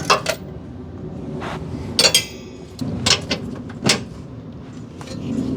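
Hand tools knocking and clanking against metal suspension parts: about six sharp clanks, one of them ringing briefly about two seconds in.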